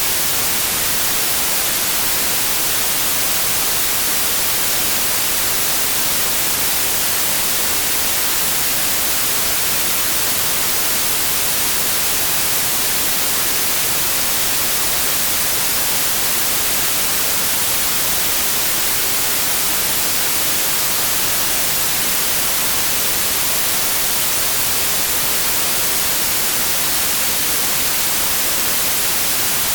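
Steady synthetic white noise: an even, unchanging hiss with no tones or events.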